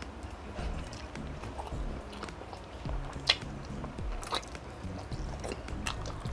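Close-miked chewing of grilled chicken inasal and rice eaten by hand, with wet mouth clicks and smacks; one sharp click about three seconds in is the loudest.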